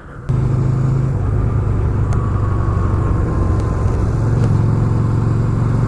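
Motorcycle engine, the Yamaha V-Star 250's air-cooled V-twin, running at a steady speed with a steady low hum. It comes in suddenly about a third of a second in.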